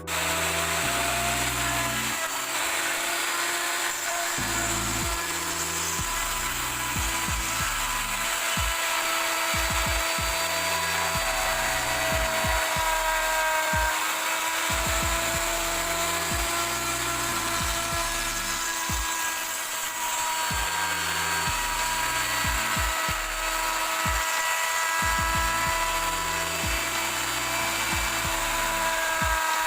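An electric power tool's motor running steadily with a continuous whine, over background music with a beat.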